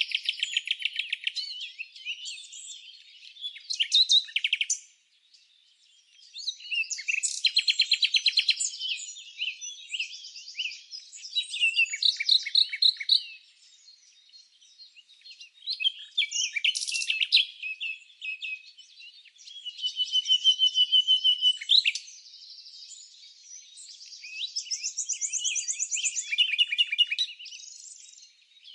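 Several songbirds singing and chirping at once: rapid trills, repeated high notes and short calls in overlapping bursts, with brief lulls between phrases.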